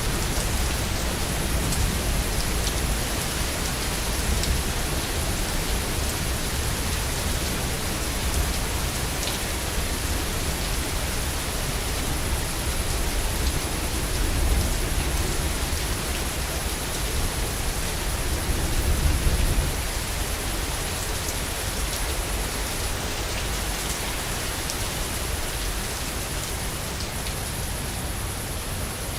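Steady heavy rain falling on surfaces, with a low rolling rumble of thunder under it that swells about two-thirds of the way through and then dies away.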